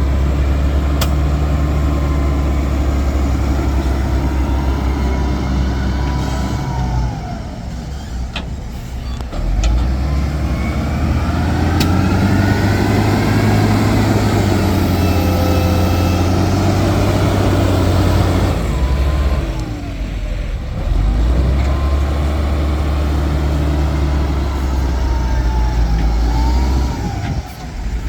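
Heavy diesel engine of earthmoving machinery working under load, its revs rising and falling. It eases off twice for a couple of seconds.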